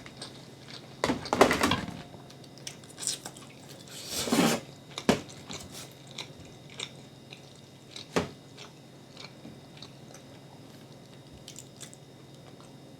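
A person eating pasta close to the microphone: chewing, with two louder noisy bursts about a second in and around four seconds, and a few short sharp clicks after them.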